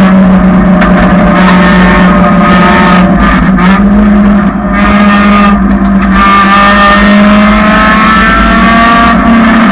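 1999 Honda Civic's engine running hard at high revs, loud and steady. The level dips briefly about four and a half seconds in, then the pitch climbs again as it pulls.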